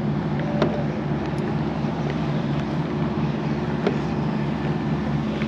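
A boat motor running steadily, a low hum with a regular pulsing, with a few faint clicks over it.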